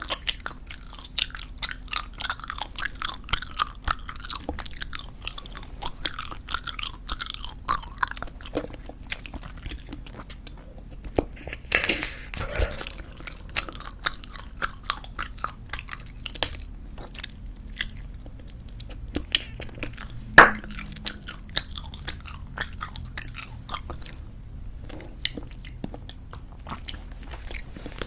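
Close-miked chewing of squeeze-tube bubblegum: a steady run of wet smacking clicks, with one sharp, loud snap about two-thirds of the way through.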